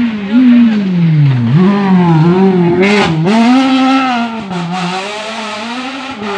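Rally car engine working hard through a corner: the pitch drops steeply as it slows, then climbs and dips again several times with revving and gear changes. A short sharp crackle comes about three seconds in.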